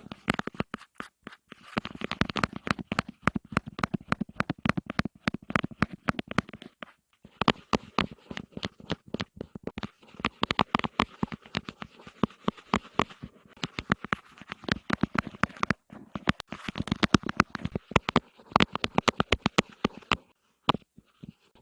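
Rapid close-up tapping on an object, many sharp taps a second, in runs with brief pauses between them.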